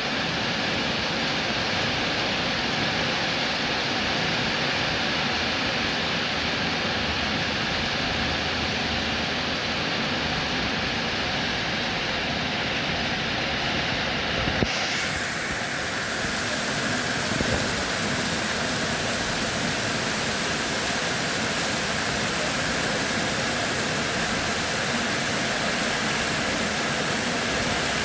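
Steady, even rain noise. About halfway through it changes abruptly to a brighter, hissier sound.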